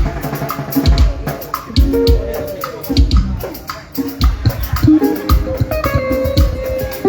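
A live band rehearsing a Latin tropical number, with guitar over a steady drum beat.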